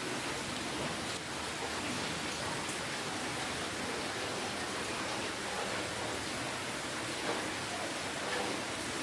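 Steady rainfall: an even hiss with a few faint drop ticks.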